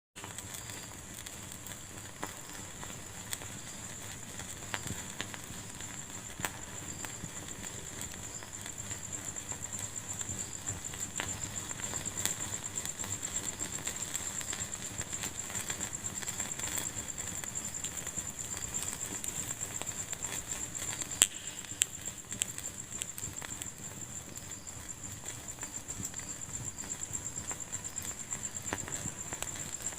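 Wood fire burning in a fireplace: a steady high hiss with scattered crackles and a few sharp pops, the loudest about two-thirds of the way through.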